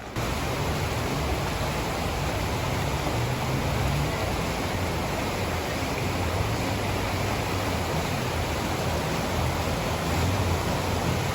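Flash-flood water rushing steadily, an even rush with a low uneven rumble underneath.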